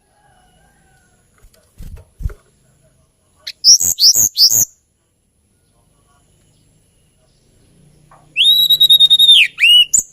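Hill blue flycatcher singing: a quick run of three rising high notes, then after a pause a long, steady whistled note that drops at its end, followed by two short curved notes.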